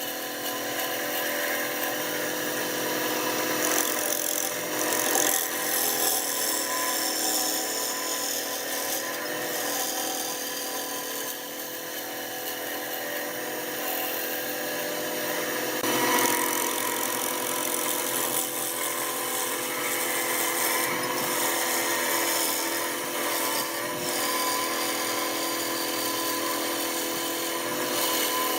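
Wood lathe running with a steady motor hum while a turning chisel cuts the spinning wood, giving a rasping scrape that swells and eases.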